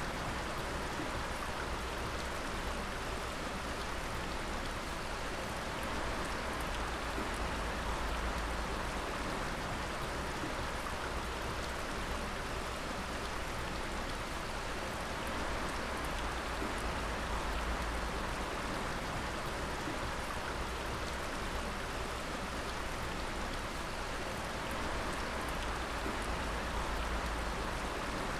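Water dripping and pattering steadily, many drops falling onto wet rock and water, with a soft hiss of running water beneath.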